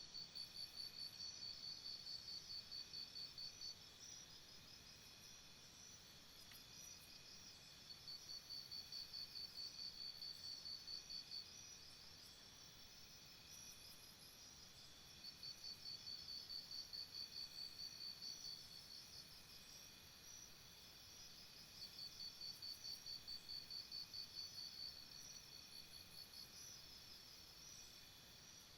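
Jungle insect chorus: a steady high-pitched hum of many insects, with one insect calling in pulsed trains of about five chirps a second. Each train lasts three to four seconds and they recur every six or seven seconds, four times in all.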